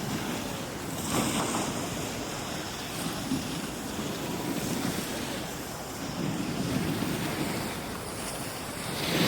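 Wind rushing over the microphone: a steady hiss that swells and eases every second or two.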